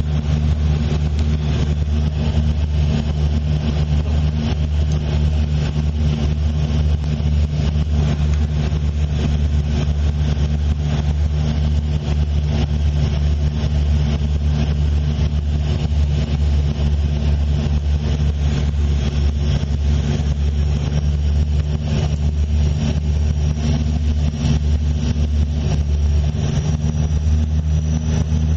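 Steady drone of a turboprop airliner's engines and propellers heard inside the cabin on final approach, with a faint high whine that rises slowly over the last several seconds.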